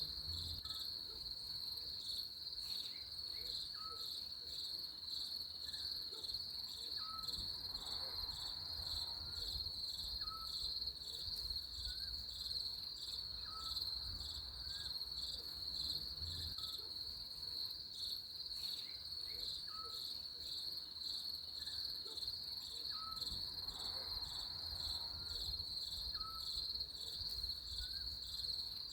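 Crickets chirping in a steady, fast-pulsing trill, with faint short chirps recurring every few seconds and a low rumble underneath.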